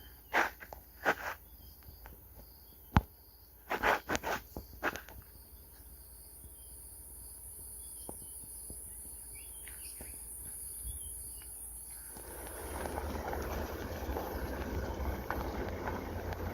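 Bush ambience of insects trilling steadily, with a handful of sharp knocks in the first five seconds. From about twelve seconds in, a rising rush of wind and vehicle noise covers the insects.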